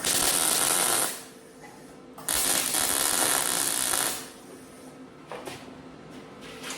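A metalworking tool on sheet metal, running in two loud bursts: one of about a second, then after a short pause one of about two seconds. Each starts suddenly and tails off.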